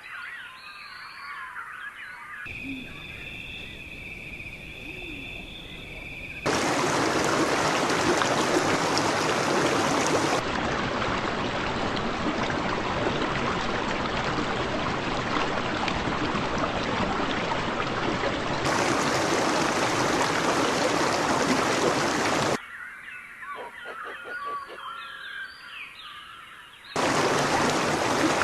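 Birds chirping, then a few seconds of two steady high tones, then a long stretch of loud rushing noise like flowing water. The birds return briefly about 23 seconds in, then the rushing noise resumes near the end. Each change is abrupt, like a cut between recordings.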